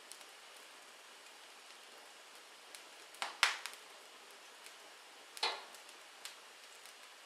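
Wood fire crackling in a fireplace: a soft steady hiss with scattered small ticks and two loud pops, about three and a half and five and a half seconds in.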